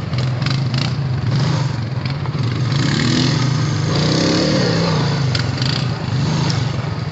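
Honda Rancher ATV engine running steadily on a trail ride. The pitch rises and falls briefly around the middle as it revs, with a few knocks from the ride.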